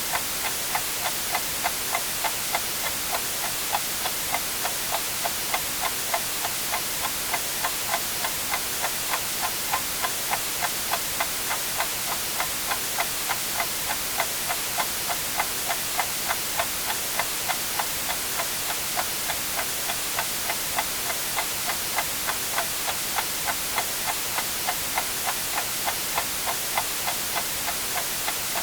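Mechanical clock ticking steadily, about two ticks a second, over continuous white noise hiss.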